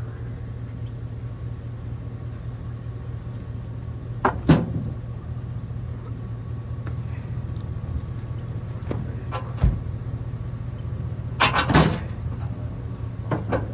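Truck engine idling steadily, with a few sharp knocks and clunks over it: one about four seconds in, one near ten seconds, and a cluster near the end.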